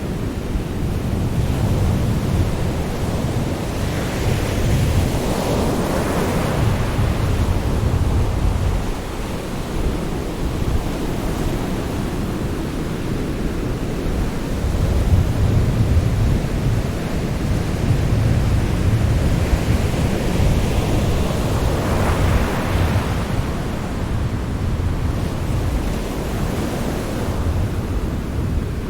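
Sea surf: a continuous low rumble of waves, with a wave breaking and washing in as a swell of hiss about five seconds in and again about twenty-two seconds in.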